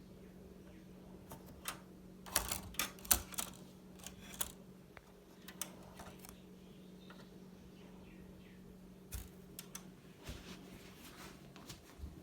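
Irregular sharp clicks and knocks, coming in two clusters, over a faint steady low hum.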